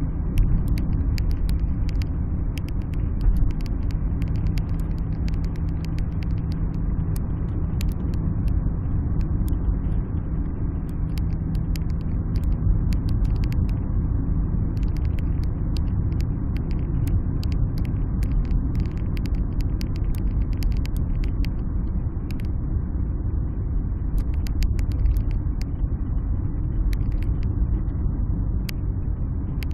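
Alfa Romeo 156 being driven, heard from inside the cabin: a steady low rumble of engine and road noise. A steady hum runs through about the first half, with scattered sharp clicks throughout.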